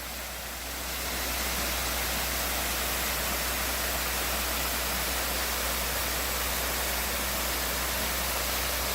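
Waterfall rushing steadily, an even hiss of falling water that grows a little louder about a second in and then holds.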